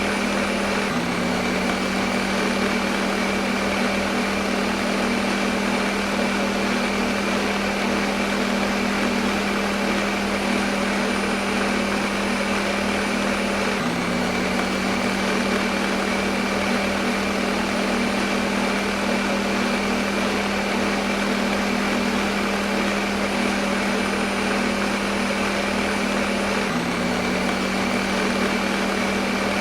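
Electric kitchen blender running steadily at one speed: a constant motor hum under an even whirring hiss. A slight hitch in the hum comes about every thirteen seconds.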